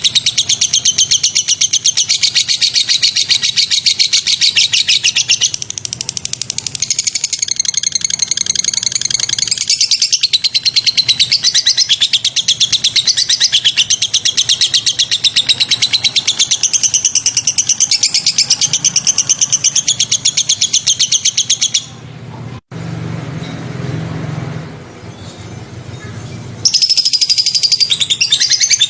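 Songbird singing a fast, continuous run of sharp, rapidly repeated high notes. About 22 seconds in, the song breaks off for a few seconds of quieter, lower noise, then resumes near the end.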